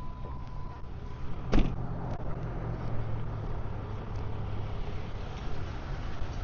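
A vehicle engine running steadily with a low hum, and one sharp click or knock about a second and a half in.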